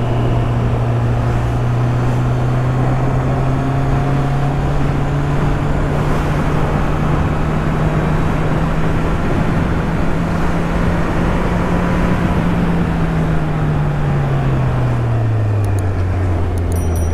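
Kawasaki Z800's inline-four engine running at cruising speed under a steady rush of wind and road noise. The engine note holds, rises slightly, then falls away over the last few seconds as the revs drop.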